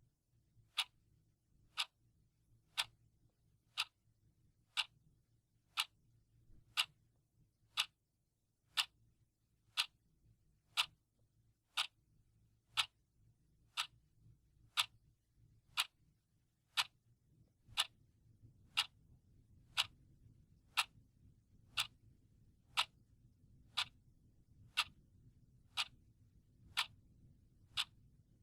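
Clock ticking steadily, one sharp tick each second, keeping time for a countdown timer.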